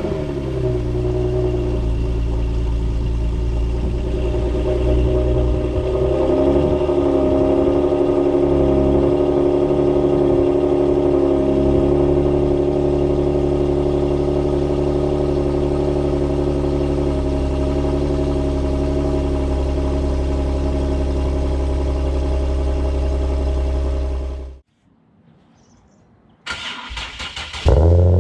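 Car engine idling steadily through its exhaust, then shut off suddenly; after a short pause the starter cranks it for about a second and the engine fires and idles again near the end.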